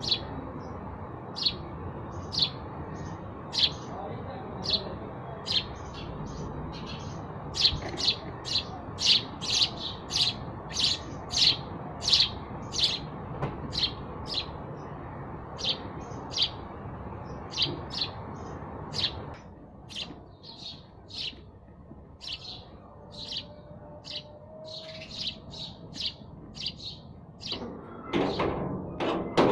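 House sparrows chirping, a long run of short repeated chirps, about one to two a second and most rapid through the middle. A steady background rush stops about two-thirds of the way through, and a louder noisy clatter starts near the end.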